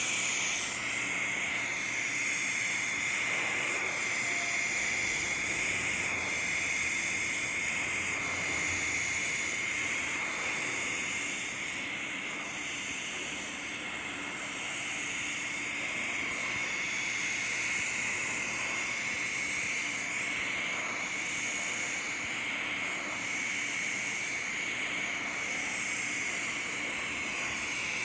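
Electric welding arc burning steadily on a pipe flange: a continuous hiss with a steady high whine over it.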